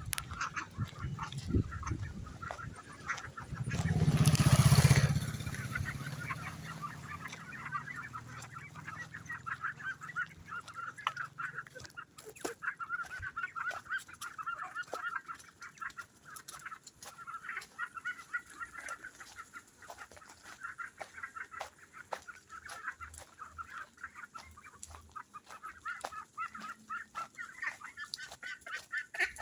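A flock of ducks calling continuously, many short overlapping calls. About four seconds in, a loud rushing noise lasting a second or two covers them.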